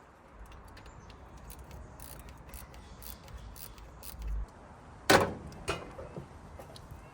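Scattered light clicks and handling noises, then a sharp knock with a short ringing tail about five seconds in and a weaker knock half a second later.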